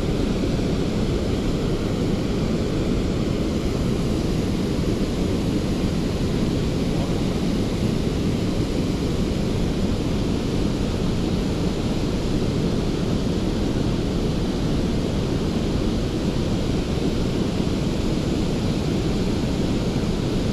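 Steady wind rumble buffeting the microphone, with no other clear sound standing out.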